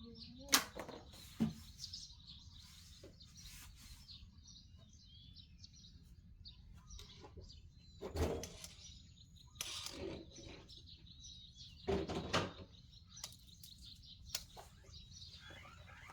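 Small birds chirping and twittering steadily, with a few short, louder rustles or knocks about half a second in, around eight and ten seconds, and near twelve seconds.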